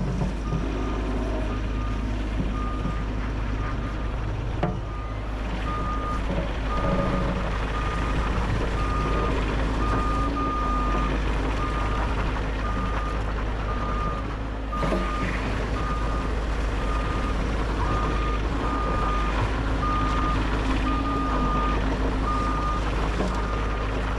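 Bobcat E50 compact excavator's travel alarm beeping steadily, one high-pitched beep repeated at an even pace, over the machine's diesel engine running. The alarm means the excavator is tracking.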